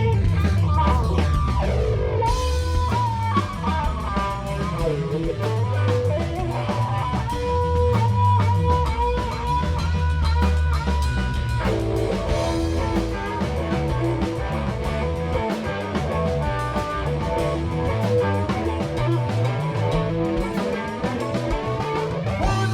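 Live rock band playing an instrumental passage: electric guitar lines with bent notes over bass and drum kit. About twelve seconds in the guitar changes to a different, denser figure.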